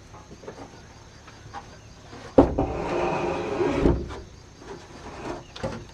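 Pieces of wood being handled: a sharp knock about two and a half seconds in, a second and a half of rattling and scraping, then another knock, with more knocks near the end.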